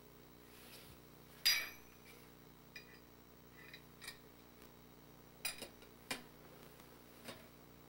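A handful of light clinks and knocks of hard objects, the loudest a ringing clink about one and a half seconds in, over a faint steady hum.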